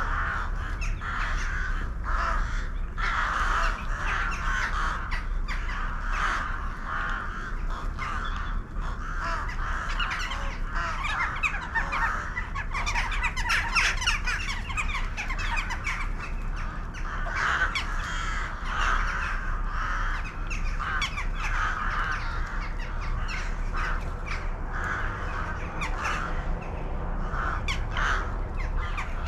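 A large flock of birds calling continuously, with many harsh calls overlapping into one dense din and a steady low rumble underneath.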